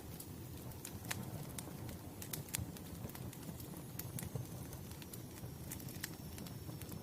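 Burning wood crackling, with irregular sharp pops and snaps over a low steady rumble.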